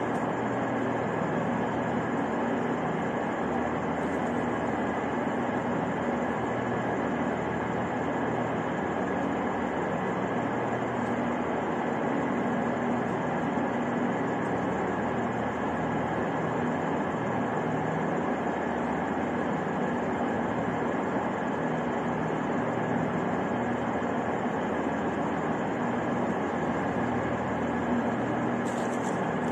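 Steady rail-station ambience: the constant hum and rumble of trains in a large station hall, unchanging throughout.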